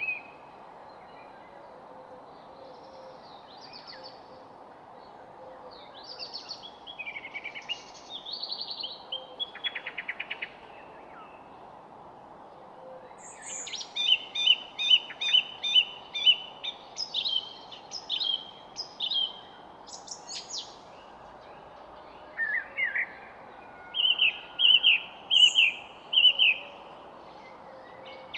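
Several songbirds singing and calling, with varied short chirps, trills and quick runs of repeated notes over a steady background hiss. The calls are sparse at first and come in quicker, louder runs from about halfway in.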